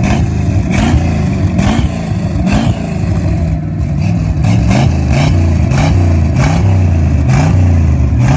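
1973 Corvette Stingray's V8 running through a custom dual exhaust with Flowmaster 40 Series mufflers, revved in short repeated blips about once a second.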